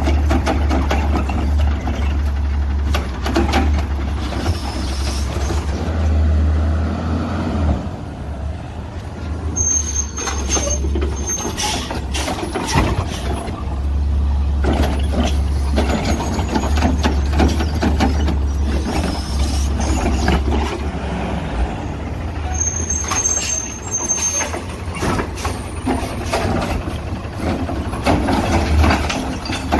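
CNG-powered Autocar ACX garbage truck with a Heil Rapid Rail automated side-loader at work: the engine runs with a steady low rumble, with air-brake hissing and repeated clanks and bangs as the arm handles and dumps recycling carts. A high thin tone sounds twice, each time for about a second.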